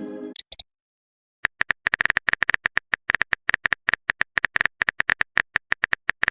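A rapid, irregular string of short clicks from a text-typing or dialogue-blip sound effect, starting about a second and a half in. At the very start a short pitched sound effect fades out.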